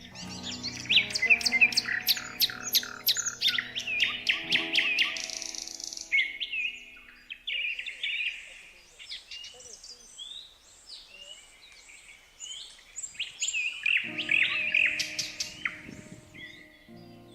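Songbirds chirping and singing in a dense chorus of quick, repeated chirps and trills over soft sustained background music. The music fades out about six seconds in, leaving the birds alone, and returns about three seconds before the end.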